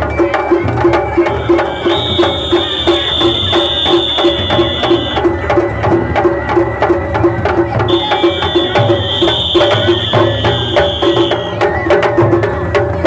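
Japanese festival music (matsuri-bayashi): drums and wood-block-like strikes keep a steady quick beat, while a high flute holds one long note twice, each for about three to four seconds.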